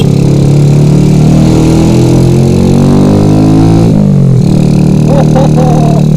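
Yamaha Jupiter Z motorcycle engine through a CLD racing exhaust, revving with the pitch climbing slowly, then dropping sharply about four seconds in as the throttle closes and settling into a steady run. A fainter wavering tone joins near the end.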